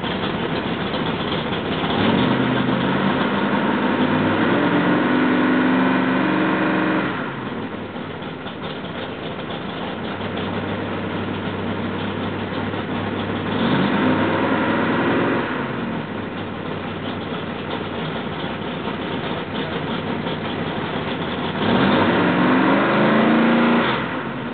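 Freshly rebuilt L88 427 big-block Chevrolet V8 running on an engine stand. It idles, and the throttle is opened three times, each time held at higher revs for a few seconds before dropping back to idle, while the ignition timing is being set.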